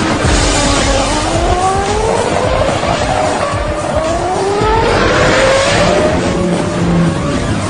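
High-revving racing engines accelerating hard in a drag race. The pitch climbs, drops back at a gear change about halfway through, then climbs again.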